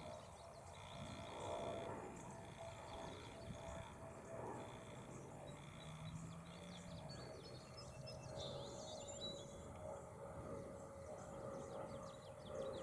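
Faint outdoor ambience: small birds chirping over a steady hum, the chirps thickest in the last few seconds.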